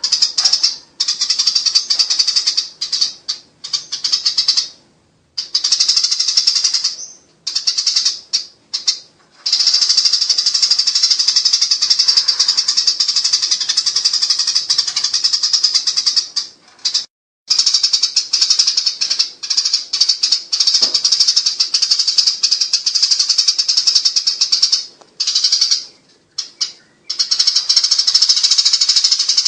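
Eurasian tree sparrows giving the rapid, buzzing chatter of fighting birds: a dense, high-pitched trill in long runs of several seconds, broken by short pauses.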